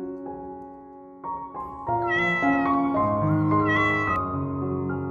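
A domestic cat meowing twice, each meow about half a second long, over background music.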